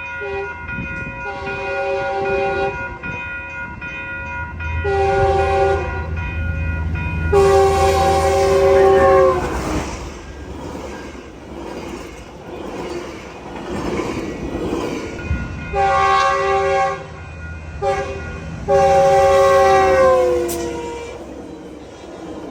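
Train air horn blowing a multi-note chord in a series of long blasts with a short one, the grade-crossing signal, as trains come through the crossing. The chord drops in pitch at the end of two of the long blasts as the horn passes by, with a low locomotive engine rumble under the middle of the series.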